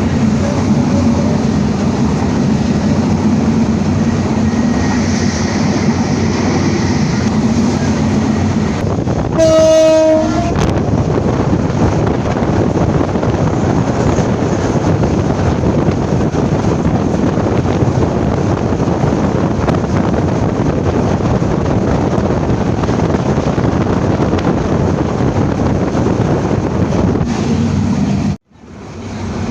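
Passenger train running on the rails with a steady rumble, and a train horn sounding once for about a second and a half roughly nine seconds in. Near the end the sound cuts out abruptly for a moment and fades back in.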